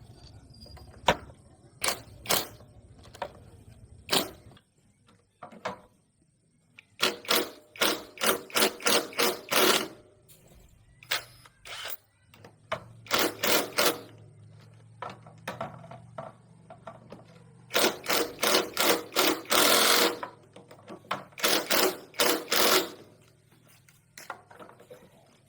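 Bursts of quick, repeated hand-tool strokes, about five a second, each burst lasting a second or few with short pauses between, over a faint low steady hum.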